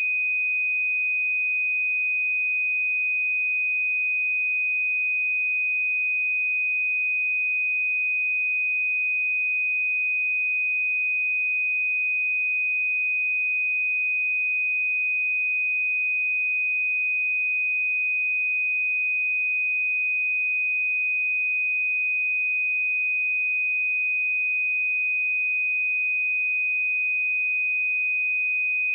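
A pure 2498 Hz sine-wave test tone, a single steady high-pitched tone held at a constant level.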